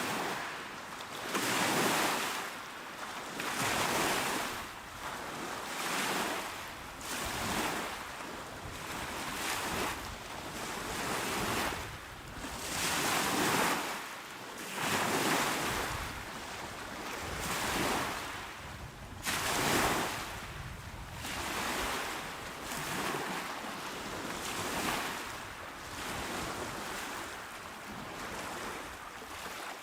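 Calm waves washing onto a shore, one after another, the surf swelling and falling back about every two seconds, with a few stronger surges among them.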